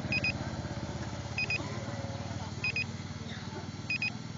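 An engine running steadily at idle, with a short high double electronic beep repeating about every one and a quarter seconds.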